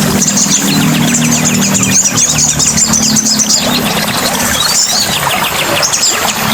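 Several songbirds chirping and trilling rapidly in a dense chorus, over a steady low hum and an even background wash.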